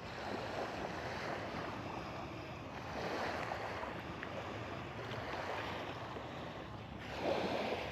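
Small waves washing in at the water's edge with wind on the microphone, swelling twice, about three seconds in and again near the end.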